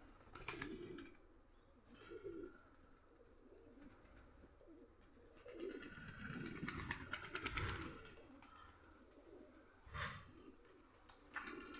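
Domestic pigeons cooing softly again and again, with a stretch of scratchy rustling in the middle.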